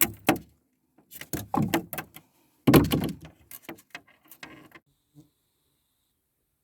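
Fishing gear being handled: a run of knocks and rattling clatters, loudest about three seconds in, thinning out and stopping about five seconds in.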